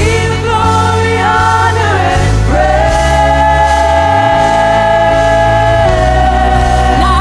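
Live worship music: a choir singing long held notes over instrumental accompaniment with a steady bass.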